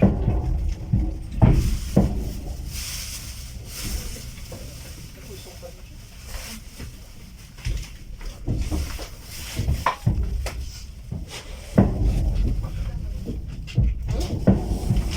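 Low rumble of a passenger rail carriage with irregular knocks and clunks, and indistinct voices.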